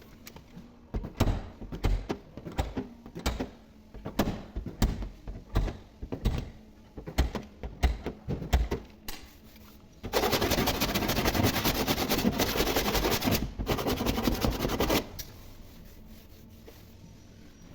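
Irregular knocks and taps, then about five seconds of a fast, steady rattling buzz that starts and stops abruptly, typical of dent-repair work on a car body panel.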